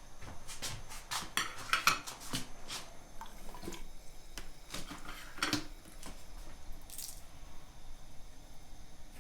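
Dishes and cutlery clinking and knocking in a kitchen: a run of sharp clinks, some briefly ringing, loudest about two seconds in, thinning out after about six seconds.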